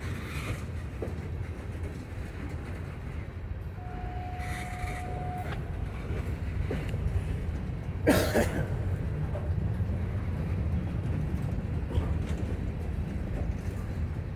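Freight cars (tank cars, boxcars and covered hoppers) rolling past, their steel wheels making a steady low rumble on the rails. A brief steady high tone sounds about four seconds in, and a loud sudden noise about eight seconds in.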